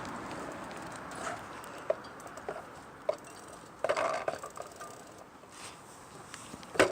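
Irregular clicks and knocks of something being handled at close range, with a cluster of rattling knocks about four seconds in and a sharp knock near the end.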